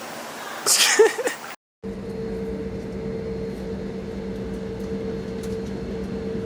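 A short burst of voice, then after a cut a steady engine drone with a constant low hum and a higher steady tone, as heard from inside a travelling vehicle.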